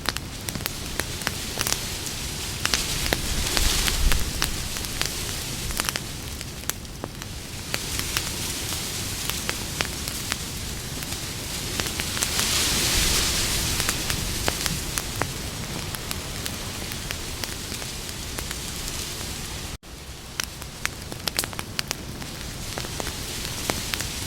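Campfire burning, with a steady hiss and many sharp, irregular crackles and pops. The hiss swells twice, and the sound drops out for a split second about twenty seconds in.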